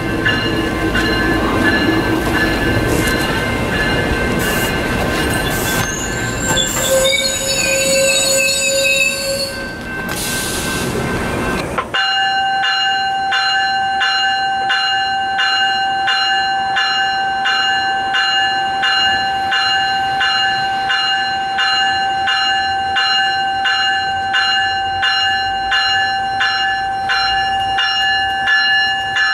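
Metrolink commuter train rumbling beside the platform, with brief high wheel squeals about seven to ten seconds in. After about twelve seconds the sound changes abruptly to a railroad grade-crossing bell ringing steadily, a bit under two strokes a second.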